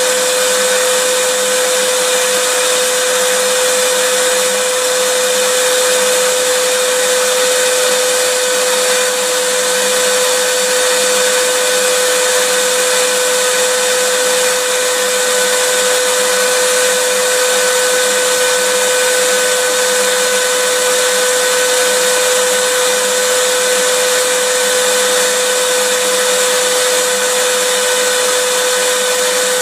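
Electric vacuum cleaner running steadily: a loud, even motor whine with a strong hum and a broad airy hiss, unchanging, used as white noise to soothe a baby to sleep.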